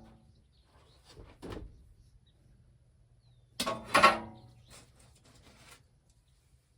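Scattered knocks and clanks of hardware being handled, with one loud, ringing metallic clank about four seconds in.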